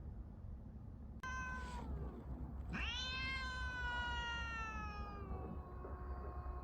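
Domestic cat yowling in a standoff with another cat: a short call about a second in, then one long, drawn-out yowl that sinks slowly in pitch. A second, lower yowl joins near the end.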